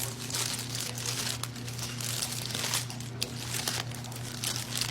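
Paper fast-food packaging crinkling in bursts as it is handled and opened, over a steady low hum.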